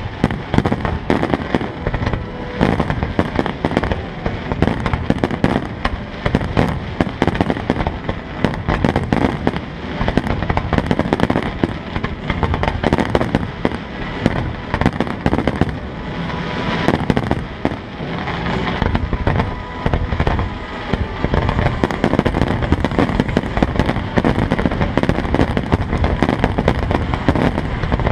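Fireworks display: aerial shells bursting in a rapid, nearly unbroken barrage of loud bangs.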